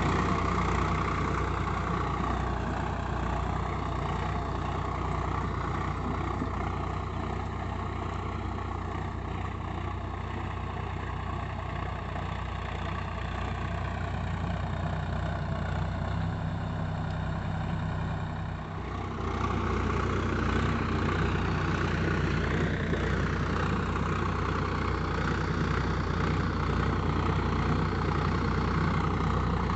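Swaraj 744 XT tractor's three-cylinder diesel engine running steadily, with a brief dip about two-thirds through after which it runs a little louder.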